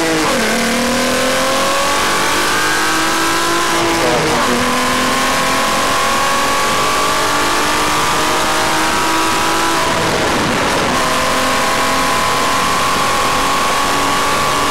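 Volkswagen Golf R32's 3.2-litre VR6 engine under full throttle, pulling up through the gears with three upshifts. Each gear change brings a sudden drop in pitch about a second in, around four seconds in and around ten seconds in. The last pull rises more slowly in the higher gear.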